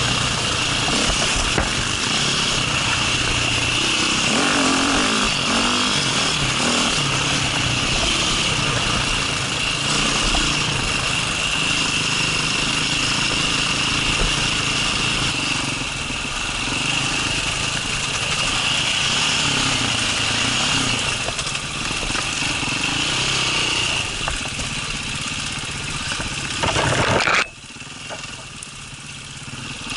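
Enduro dirt bike engine running under way while riding a trail, heard close up with wind rush on the microphone. Near the end the sound drops away suddenly.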